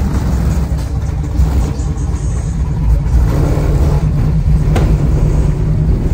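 Car engine running with a loud, steady low rumble, and a sharp click about five seconds in.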